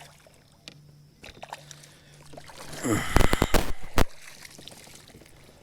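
A quick run of loud knocks and clatter on a fishing kayak, about three seconds in, with water sloshing around the hull.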